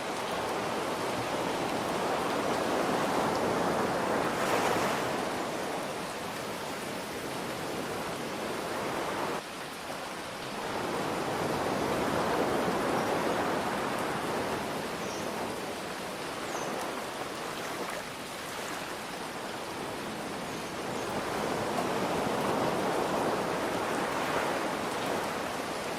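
Ocean waves washing in over a steady hiss of rain, the surf swelling and easing three times, roughly every nine or ten seconds.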